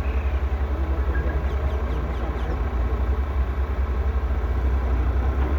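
New Holland 3630 TX tractor's three-cylinder diesel engine running steadily, a fast, even, low throb.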